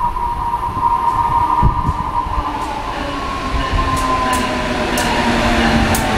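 Amtrak AEM-7 electric locomotive and its passenger cars approaching and running past a station platform: a whine that slowly falls in pitch under a growing rumble, with a few sharp clicks in the last couple of seconds as the locomotive goes by.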